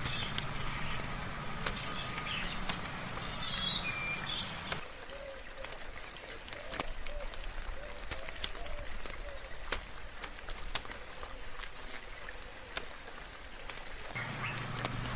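Birds chirping over a steady hiss of soft rain, with scattered sharp drips tapping. About five seconds in, a low hum drops away and the calls become fewer and fainter.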